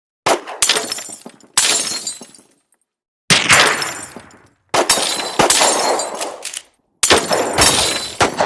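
A run of sudden crashing hits, five in all, each trailing off over one to two seconds.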